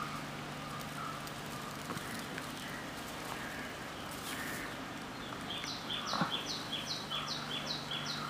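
A bird calling in a fast run of short, high, falling notes, about three a second, starting about five and a half seconds in, over a low steady hum.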